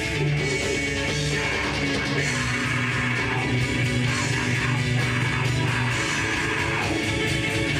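Live heavy rock band playing: distorted electric guitars and bass over drums, loud and steady.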